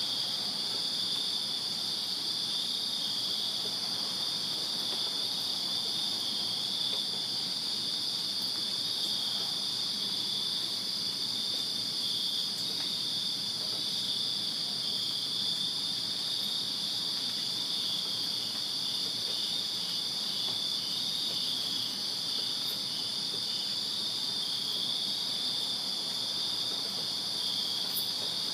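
A night chorus of crickets chirping steadily, several high-pitched trills overlapping without a break, one of them with a faintly pulsing beat.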